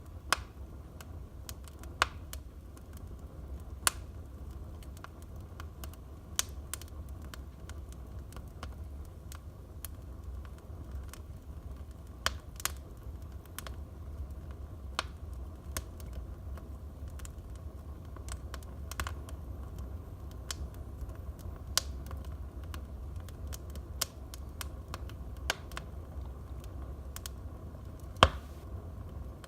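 Wood fire burning in a fireplace: a steady low rumble of the flames with irregular sharp crackles and pops from the burning logs, one pop louder than the rest near the end.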